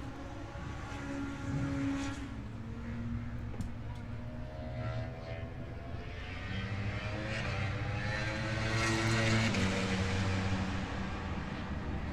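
Several classic racing motorcycle engines running and being revved, their pitches rising and falling over one another, getting louder in the second half.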